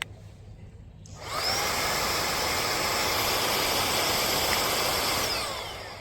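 Minthouz cordless handheld vacuum cleaner's motor switched on: it spins up with a rising whine about a second in, runs at a steady high pitch, then is switched off and winds down with a falling whine near the end.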